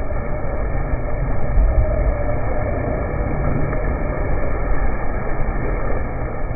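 Large electric 6×6 RC trail truck wading through deep water: a steady, muffled rumble of churning water with a faint wavering motor whine.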